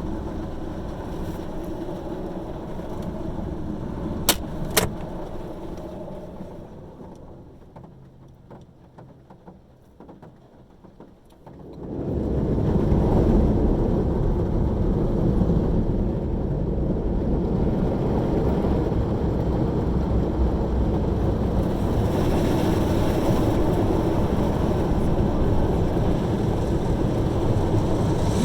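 Automatic car wash heard from inside the car. A steady rumble with two sharp clicks fades to a quiet spell. About twelve seconds in, a loud, steady rush of the wash machinery working over the car starts suddenly and keeps on.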